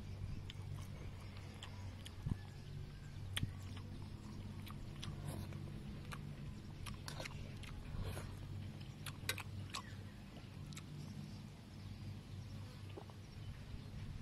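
A person chewing and eating fried fish, with scattered short clicks and mouth sounds over a steady low hum.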